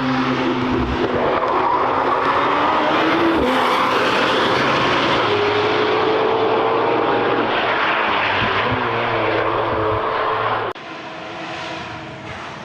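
Lamborghini supercar engine and exhaust running loud at high revs, its pitch wavering up and down. About three-quarters of the way through it cuts abruptly to a quieter engine sound.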